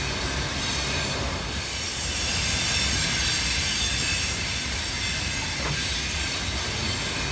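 Freight train wagons rolling past on steel rails: a steady rumble and wheel noise, with one knock of the wheels over a rail joint near the end.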